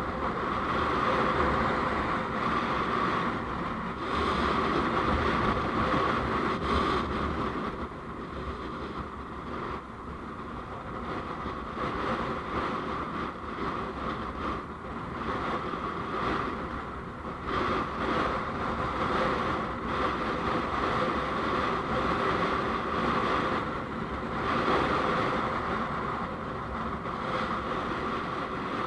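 Steady road and wind noise from a moving vehicle, swelling and easing every few seconds.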